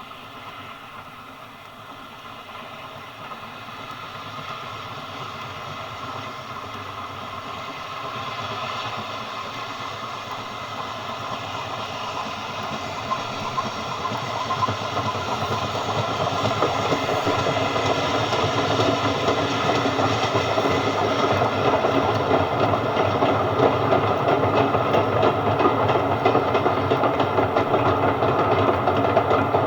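Railway train approaching and growing steadily louder, with a quick rhythmic clatter of wheels on the rails through the second half. Heard on an old BBC sound-effects disc recording, with the top end cut off.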